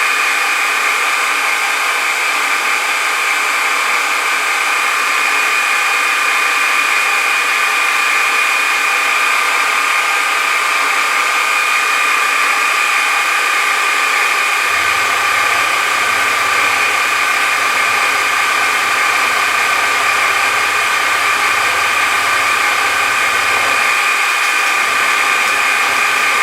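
Electric machine tool running steadily with a constant high whine, during a cutting pass on a gear's new teeth.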